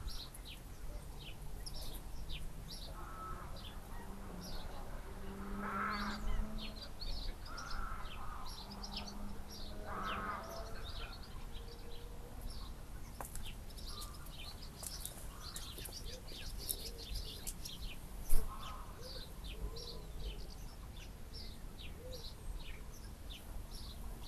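Songbirds chirping and calling, many short high notes overlapping all the while. About 18 seconds in there is a single sharp click, the loudest sound.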